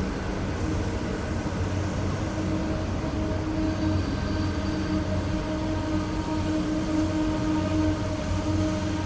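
A train running by: a steady rumble with a steady, even-pitched hum.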